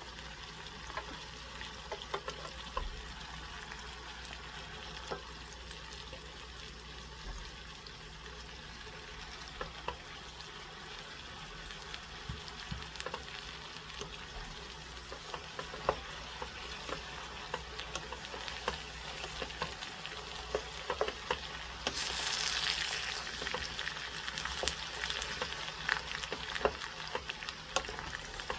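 Vegetables sizzling in oil in a stainless steel pot as shredded cabbage is added and stirred with a wooden spoon, with scattered knocks of the spoon against the pot. The sizzling swells for a couple of seconds about three-quarters of the way in.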